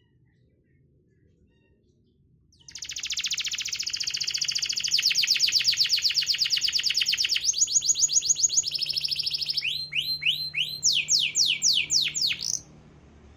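Domestic canary singing a lure song of the kind played to coax reluctant canaries into song. About two and a half seconds in it starts with a long, very fast trill, then switches to shorter rattling phrases and a run of quick down-slurred notes, and cuts off suddenly near the end.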